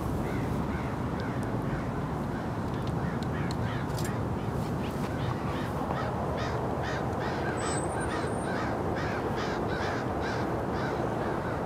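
A bird calling over and over in quick succession, about three calls a second, over a steady low rush of background noise.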